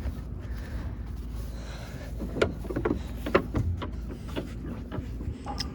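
Carrier central air conditioner's outdoor condenser unit running steadily in cooling mode, a low hum, with the suction line cold and the liquid line warm as it should be. A few short clicks or knocks come over it from about two seconds in.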